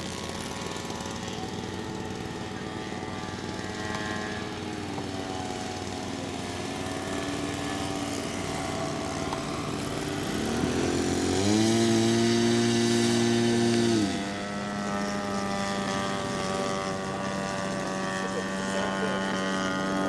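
Radio-controlled model airplane engines running. About ten seconds in, one climbs in pitch to a louder steady note, holds it for about three seconds, then drops back down.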